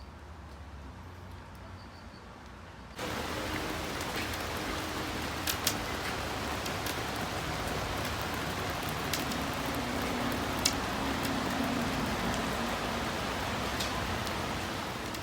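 Steady rain falling, with scattered small drips and taps; it starts abruptly about three seconds in.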